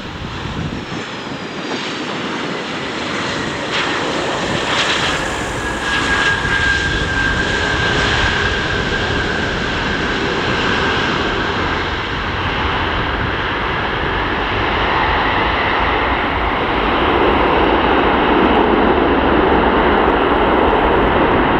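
Engines of a large four-engined Antonov cargo aircraft running loud, with a whine that slowly falls in pitch partway through; the noise grows louder in the last few seconds.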